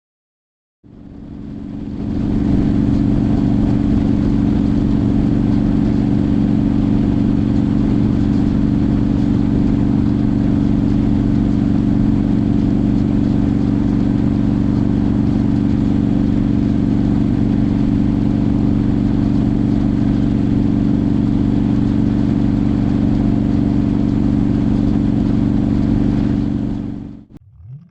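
Motorcycle engine running at a steady cruising speed with wind rush, fading in over the first two seconds and cutting away shortly before the end.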